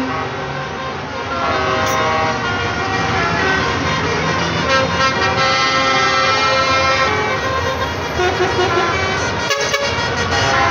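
Several truck horns honking at once, overlapping at different pitches, over the running of heavy truck engines.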